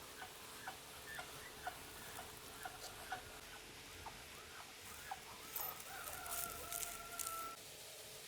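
Chickens clucking in short repeated calls, about two a second, then one long drawn-out call lasting about two seconds, starting a little past halfway.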